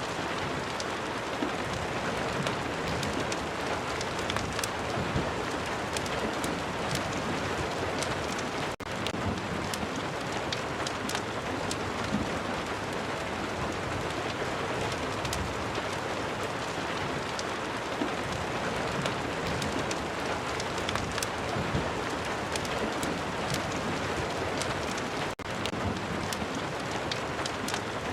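Steady rain with many small sharp ticks scattered through it, the crackle of a rain-and-fireplace ambience. The sound dips for an instant twice.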